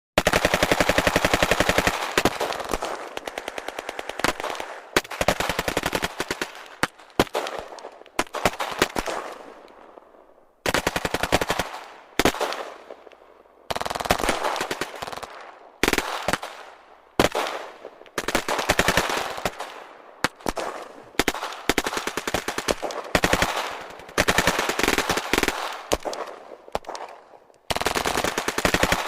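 Automatic gunfire sound effect: bursts of rapid, evenly spaced shots, each burst dying away in an echoing tail. It starts abruptly out of silence, with a couple of brief pauses about ten and thirteen seconds in.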